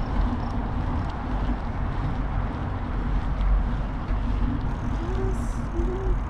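Wind and rolling noise on a bicycle-mounted GoPro's microphone during a ride: a steady low rumble, with a couple of faint short squeaks about five seconds in.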